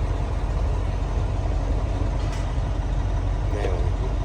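Rebuilt Mercedes-Benz 12-litre V8 diesel truck engine idling steadily with a low, even rumble.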